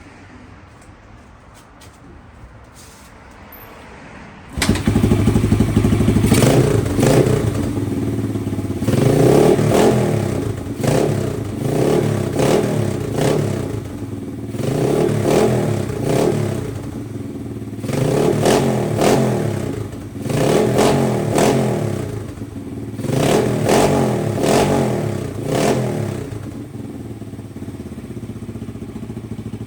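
Yamaha TW200's single-cylinder four-stroke engine starting about four and a half seconds in, then revved in repeated short blips of the throttle before settling to a steady idle near the end.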